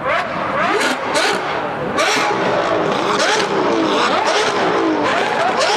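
Porsche 992 GT3 RS flat-six with a very loud aftermarket exhaust, revving hard. Its pitch climbs and drops again and again through gear changes, with a few sharp cracks in the first two seconds.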